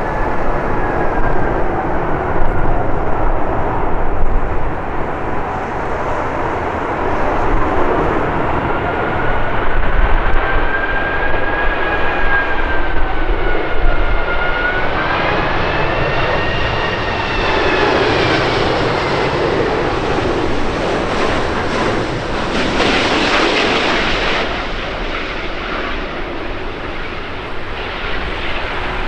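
Airbus A380 jet engines heard as the airliner flies past, with whining tones that glide up and down in pitch over a continuous rumble. Strong wind rumbles on the microphone throughout.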